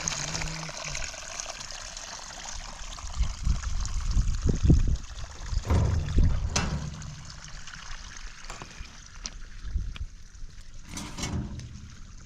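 Water trickling, with irregular low thuds and a sharp click partway through.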